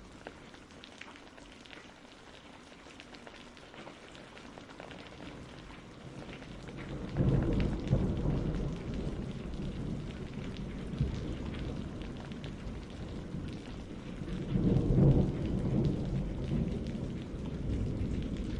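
Steady rain with thunder rumbling twice: a low roll builds about seven seconds in and another comes around fifteen seconds in.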